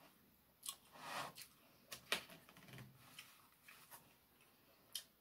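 A person chewing with a few soft mouth clicks and smacks, about a second and two seconds in and again near the end, with near quiet between.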